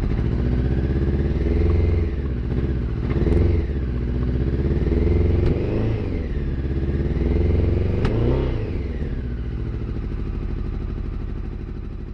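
Honda CBR900RR Fireblade's inline-four engine running loud on choke after two years unused, misfiring on only three cylinders. It is revved up and down about four times, then holds a steady fast idle that drops lower near the end.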